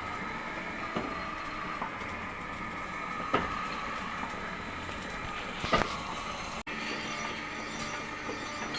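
Metal lathe running steadily with a faint whine, broken by a few sharp clicks about three and a half and six seconds in.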